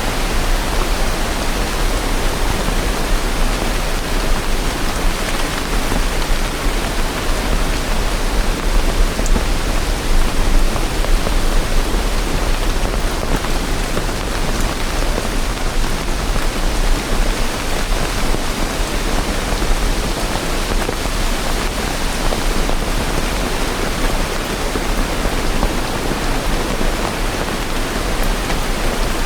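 Steady rain: a dense, even hiss with no separate drops standing out and no thunder.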